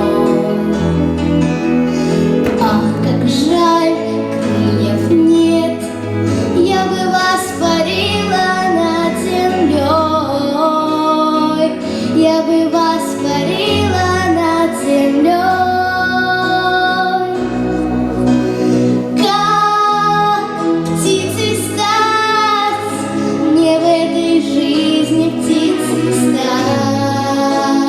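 A young girl's voice singing a song over an instrumental backing track, with long held notes and a steady bass line underneath.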